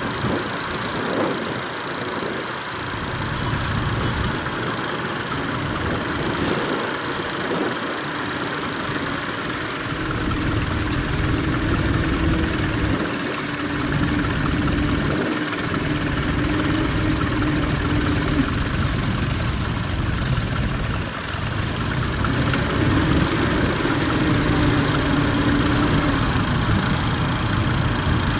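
Tractor engine running, its note wavering up and down over a steady rumble.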